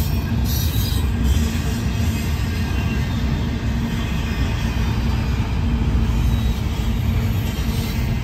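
Double-stack intermodal well cars of a freight train rolling past: a steady, loud noise of steel wheels on the rails.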